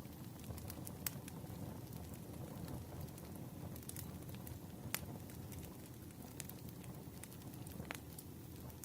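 Campfire crackling: a steady low rumble of burning with sharp pops and snaps of wood scattered irregularly through it.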